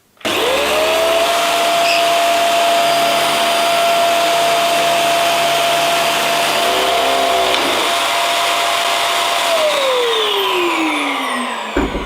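Vacuum cleaner switched on, its motor whining up to speed, then running steadily with a loud rush of air. Near the end it is switched off and the pitch falls as the motor winds down, followed by a couple of knocks.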